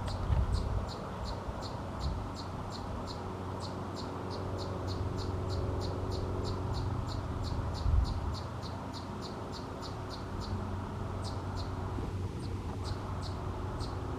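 A cricket chirping steadily outdoors, short high chirps at about three a second, over a steady low rumble, with a brief bump about eight seconds in.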